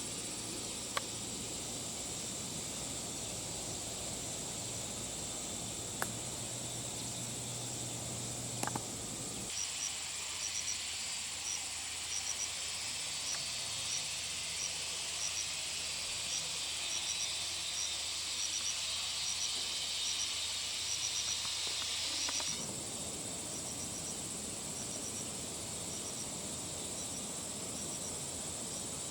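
Insects buzzing steadily at a high pitch. A middle stretch, starting and ending abruptly, has short clusters of high chirps repeating every half second or so. A few sharp clicks come in the first nine seconds.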